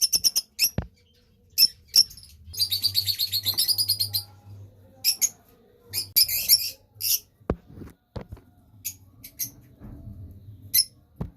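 Lovebirds chirping in short, shrill bursts, with a rapid run of chirps from about two to four and a half seconds in.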